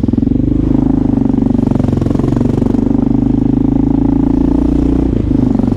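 Motorcycle engine running at a steady speed with an even pulsing note. It briefly dips and shifts about five seconds in.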